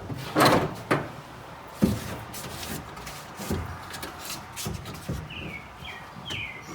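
Handling noises: a short rustle just after the start, a sharp click about two seconds in, then scattered soft knocks. Near the end a small bird chirps several times, each a quick falling note.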